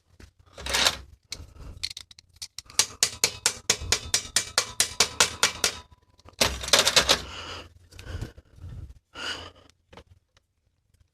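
Hand-tool work on a bicycle component: a run of evenly spaced ratchet clicks, about seven a second, for around three seconds, between short rattling, scraping bursts of metal on metal.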